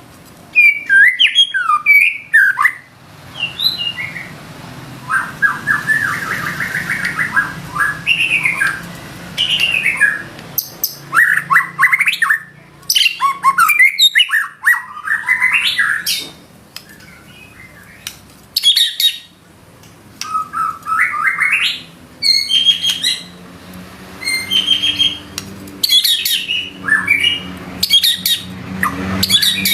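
White-rumped shama (murai batu) singing hard: loud, fast-changing phrases of clear whistles, rapid trills and harsher squawk-like notes, one after another with short pauses between. The song is packed with 'isian', the learned, mimicked material that keepers train into the bird.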